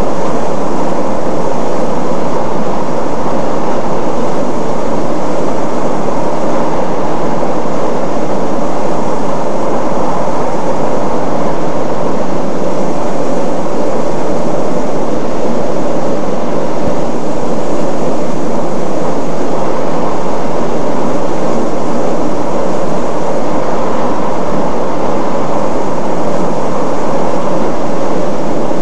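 Jōetsu Shinkansen 200 series train running at speed, heard from on board: a steady, loud rumble and rush of wheels and air that does not change.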